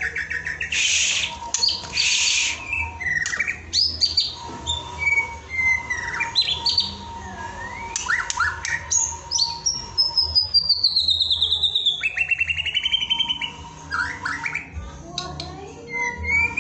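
Songbird song played as a masteran training track for white-rumped shamas: a fast, varied run of clear whistles, sweeping notes and buzzy trills, including a long falling whistle about ten seconds in. A faint steady tone and a low hum sit underneath.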